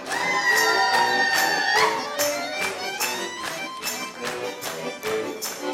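Garmon (Russian button accordion) playing a lively chastushka tune between sung verses. A long high held note opens the passage. A sharp percussive beat keeps time at about two to three strikes a second.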